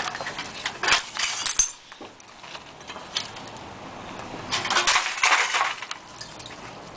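Clinking and clattering of small hard objects, in two bursts: one about a second in and a longer one around five seconds in, with scattered clicks between.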